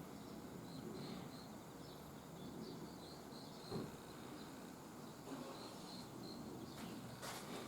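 Faint insects chirping outdoors: a steady series of short, high chirps over a low background hum, with a soft knock about halfway and a few sharp clicks near the end.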